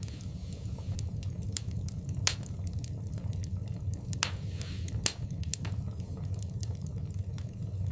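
Wood fire burning in a fireplace: a steady low rumble of the flames with irregular sharp crackles and pops, the loudest about two seconds in and again about five seconds in, and a short hiss just after four seconds.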